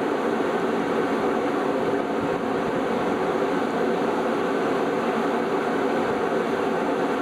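Steady, even machinery noise aboard a ship, holding at one level with no breaks.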